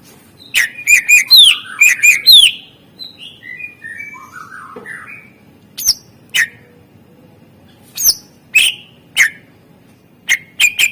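Greater green leafbird (cucak ijo) singing a loud, varied song of sharp whistled notes and downward-sweeping calls. A quick run of them comes in the first couple of seconds, then softer twittering, then scattered single sharp notes and a fast series near the end.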